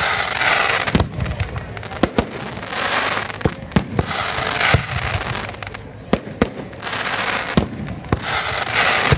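Aerial fireworks display: a rapid series of sharp bangs from shells bursting overhead, several a second at times, with stretches of hiss between them.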